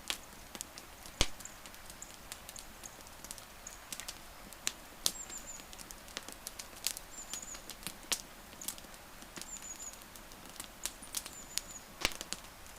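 Wood fire crackling: irregular sharp pops and snaps over a low hiss, with a louder pop about a second in and another near the end. A few short, faint high chirps come through now and then.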